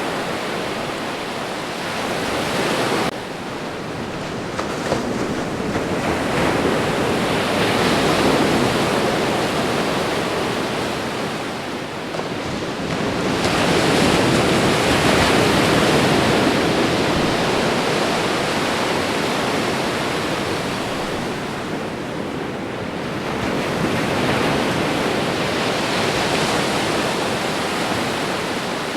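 Ocean waves breaking on a shore, a continuous wash of surf that swells and ebbs in slow surges several seconds apart. The level drops abruptly about three seconds in.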